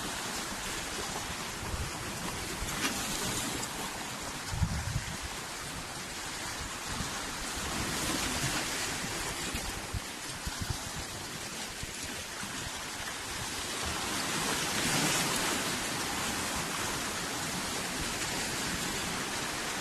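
Sea water splashing and rushing, a steady noisy wash, with a few brief knocks along the way.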